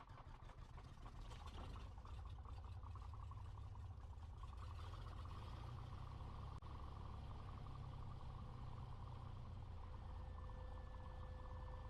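Cessna 182's piston engine just started and idling, heard from inside the cabin as a steady low drone that builds over the first couple of seconds. A faint steady tone joins near the end.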